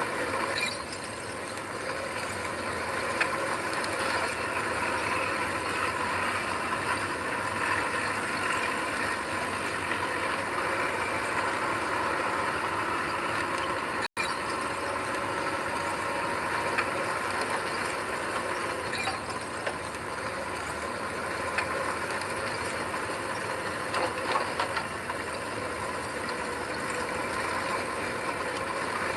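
Heavy earthmoving machinery at work: an engine running steadily under a dense metallic clatter and clanking. The sound breaks off for an instant about halfway through.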